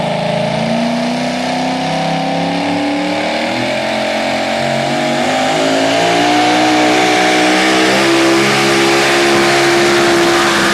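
Super modified four-wheel-drive pulling truck's engine running hard under load during a pull, its note climbing in several steps through the run.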